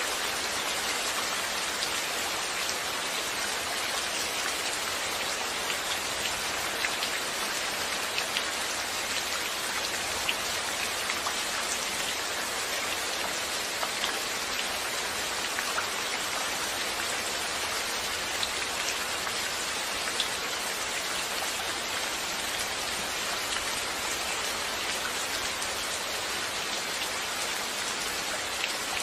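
Steady rain falling, an even hiss of rainfall with scattered individual drops ticking on a surface.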